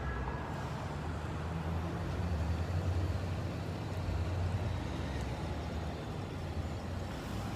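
Steady rumble of a line of cars and trucks driving slowly past, engines and tyres on the road.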